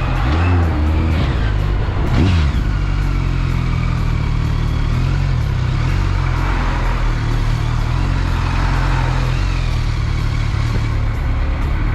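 Motorcycle engine running under way with a steady rush of wind noise. The engine note rises briefly twice in the first couple of seconds, then holds steady.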